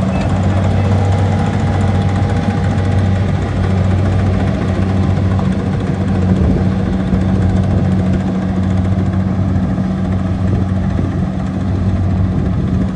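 Kubota DC70 rice combine harvester's diesel engine running steadily with a constant low hum.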